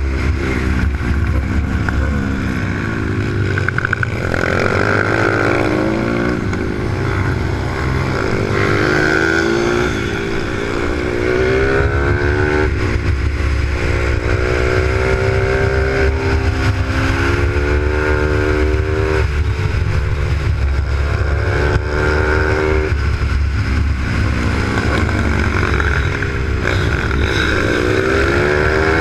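Supermoto pit bike's Z155 single-cylinder engine heard onboard at racing pace, revving up through the gears with sudden drops in pitch at each upshift, then backing off and picking up again for corners.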